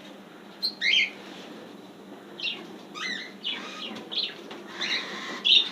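Caged pet birds chirping and calling actively in short, separate bursts, several a few seconds apart.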